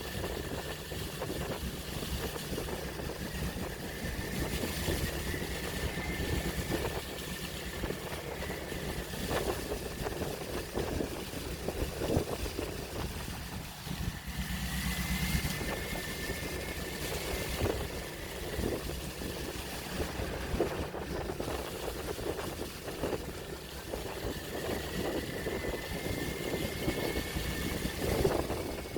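Open-sea waves washing with wind noise, over a steady engine-like hum and a faint high whine that holds near one pitch.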